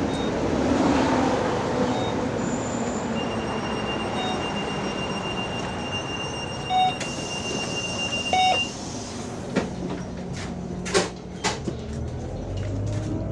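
Steady ride noise inside a moving bus, with a high whine running for several seconds. Two short beeps sound a little past the middle, followed by a few sharp clicks and knocks.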